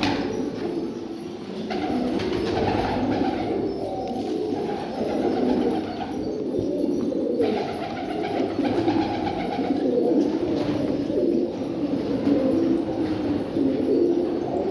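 Many domestic pigeons cooing at once, a continuous overlapping chorus of low, throaty coos.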